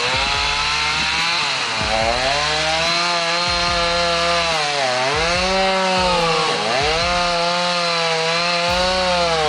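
Two-stroke chainsaw running at high revs while cutting wood, its pitch sagging under load and picking back up three times.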